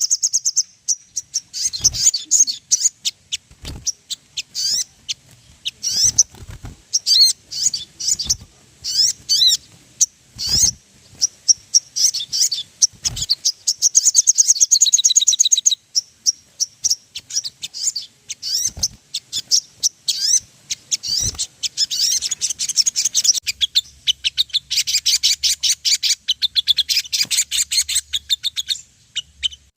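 Sogon birds calling: sharp, repeated high chirps broken by quick trills, building into fast, dense chattering phrases near the middle and through the last third.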